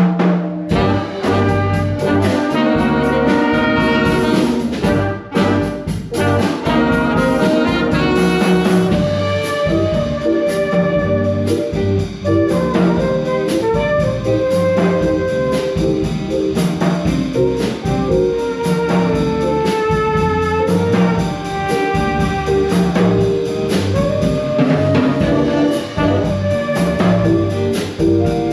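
An instrumental ensemble playing a piece: held melody notes over a steady beat.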